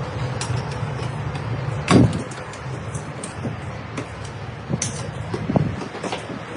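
Machinery running with a steady low rumble while metal parts are pulled from a car body, with scattered metallic clanks and knocks and one heavy thud about two seconds in.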